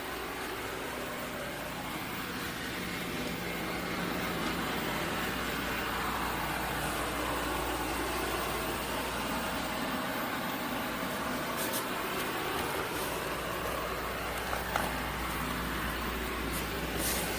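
eufy L60 robot vacuum running: the steady whir of its suction motor and brushes, with a couple of faint clicks near the end.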